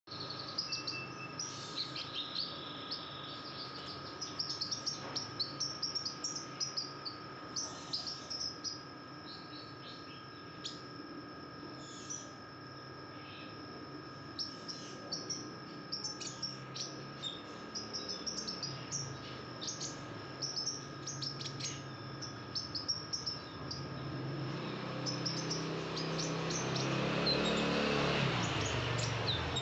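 Female olive-backed sunbird (kolibri ninja) giving many short, high chirps in quick succession, the busy calling of a hen in breeding condition. A steady faint whine runs underneath, and a rushing noise swells over the last few seconds.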